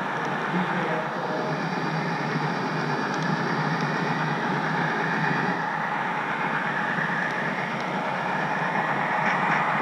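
HO scale model train rolling along the track, heard up close from a camera riding on the caboose: a steady rolling rumble of wheels on rail with a faint, thin high whine.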